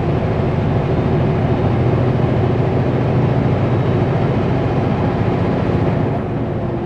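Kenworth W900L semi truck's diesel engine and road noise, a steady drone while cruising on the highway; it eases slightly near the end.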